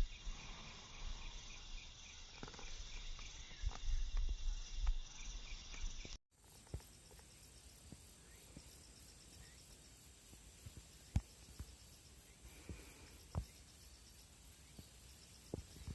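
Late-summer singing insects chirping in steady, evenly pulsing high trills, with a short break of silence about six seconds in where the recording changes. Low rumbling in the first part and a few faint clicks sit under the chirping.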